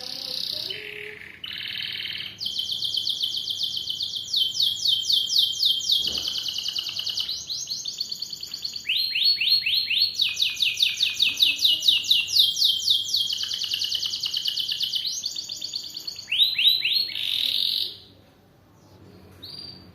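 Domestic canary singing a long song: a run of rapid trills and rolls of fast-repeated high notes, one phrase changing into the next with the speed shifting, breaking off near the end with one short note after it.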